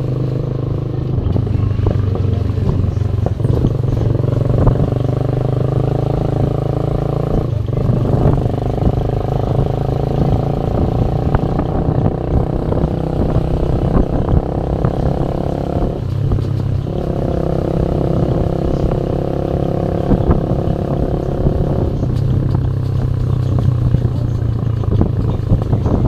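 Motorcycle engine running under way. Its steady note drops out briefly twice, about a third of the way in and again past the middle, then changes pitch near the end.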